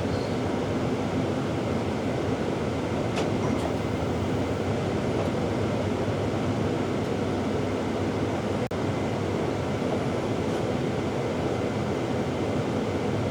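Steady ride noise inside a moving TTC shuttle bus: a constant rumble of engine and road with a few faint rattles.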